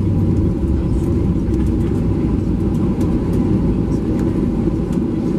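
Cabin noise of a Boeing 737-700 on its takeoff run: the CFM56-7B engines running at high power as a loud, steady rumble, with a few faint cabin rattles.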